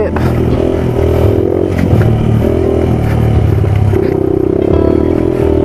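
Yamaha WR250F's single-cylinder four-stroke engine revving up and down under throttle off-road, its pitch changing repeatedly and holding steadier about four seconds in, with clattering and scraping from the bike over rough ground.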